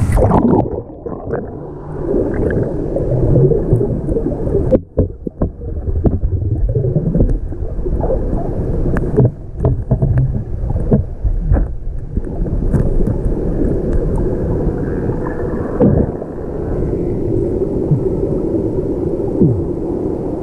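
Muffled underwater sound from a camera held below the surface of a waterfall pool: a steady low rumble of churning water, with gurgles and scattered short knocks.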